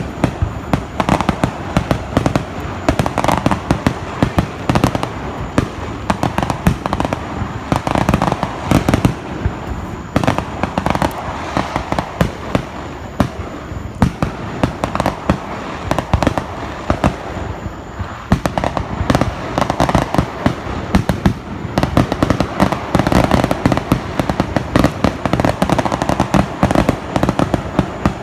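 Fireworks going off in a continuous, dense barrage of bangs and crackling, many reports a second with no let-up.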